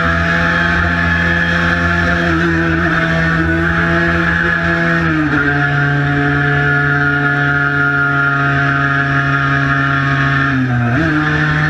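Cagiva Mito 125's single-cylinder two-stroke engine running under way at steady revs. Its note drops to lower revs about five seconds in, holds there, then climbs quickly back up near the end.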